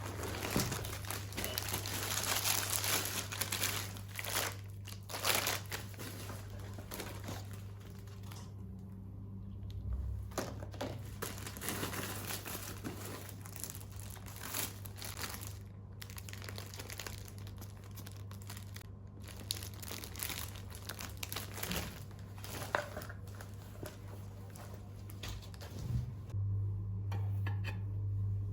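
Packaging being handled: irregular crinkling and rustling of wrappers, with some tearing, over a steady low hum that grows louder near the end.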